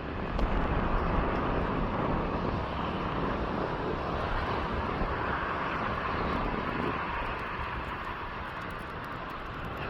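Distant airplane rumbling overhead: a steady roar that swells about half a second in, then slowly fades.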